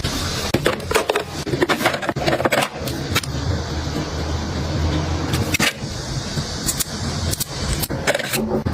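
Small objects being handled and put away: a run of sharp clicks, taps and light clattering over a low hum.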